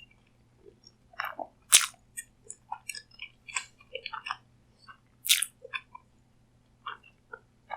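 Close-miked eating: a person biting and chewing food, with wet mouth clicks and smacks and two louder, crisp crunching bites, about two seconds in and again past the midpoint.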